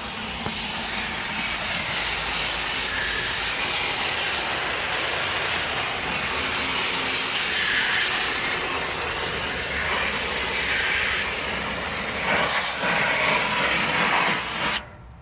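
Garden hose spray hissing steadily as water is sprayed through the fins of a central air conditioner's condenser coils to wash out dirt. It cuts off abruptly near the end.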